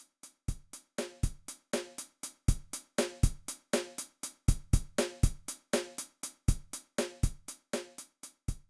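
A quiet, steady drum beat, like a drum machine, with evenly spaced hits at about four a second and a deeper kick on some of them.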